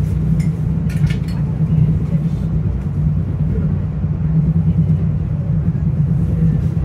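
Steady low rumble of a Metro-North commuter train running between stations, heard from inside a passenger car. A few short clicks come about a second in.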